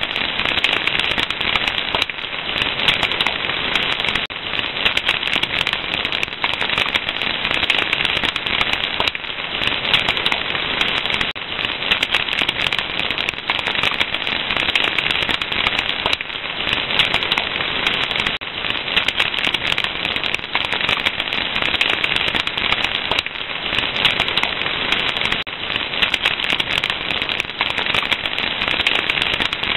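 Wood fire crackling: a dense, steady stream of small pops and snaps.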